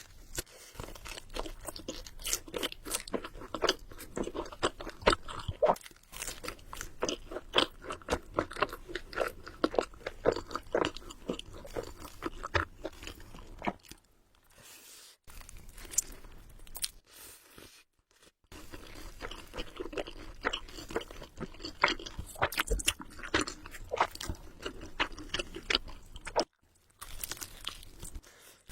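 A person chewing food close to the microphone, with a dense run of wet clicks and smacks. It pauses briefly about halfway through and again shortly before the end.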